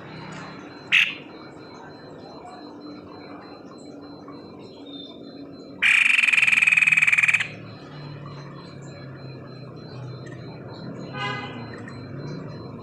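White-necked babbler calling. A short sharp note comes about a second in, then a loud, rapid rattling burst lasting about a second and a half, then a softer trill near the end.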